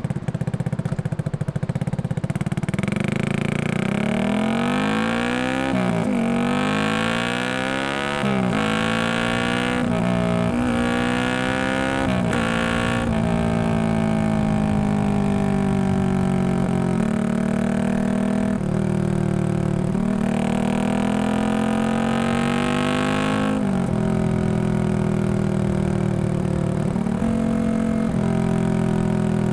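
Single-cylinder engine of a Yamaha XSR155 bored up to 183cc, through a Norifumi full exhaust, accelerating through the gears. The note climbs several times and drops sharply at each upshift, then settles into riding with slow rises and falls in pitch.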